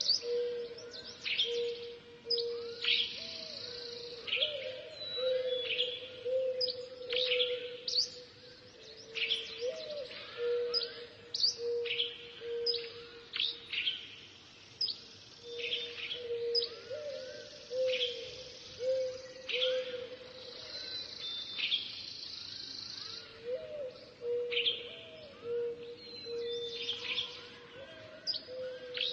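Forest birds calling: many sharp, quick chirps over a low hooting note that comes in runs of several notes every few seconds.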